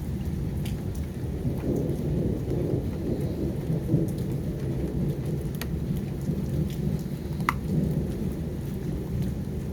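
Torrential storm rain pouring down steadily, with a continuous deep rumble beneath it and scattered sharp taps of drops striking something close by.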